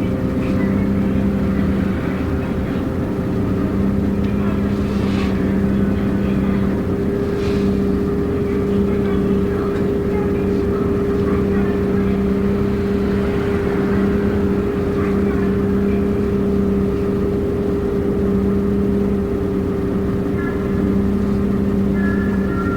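Diesel engine and drivetrain of a city route bus running, heard inside the passenger cabin: a steady hum with a lower tone that comes and goes.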